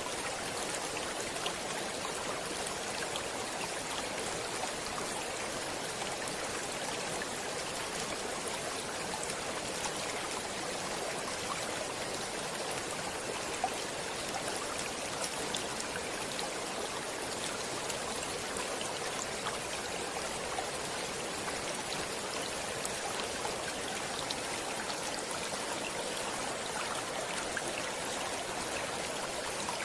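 Stream water flowing in a steady, even rush, mostly hiss with little low rumble, dotted with faint ticks and one sharper tick about halfway through.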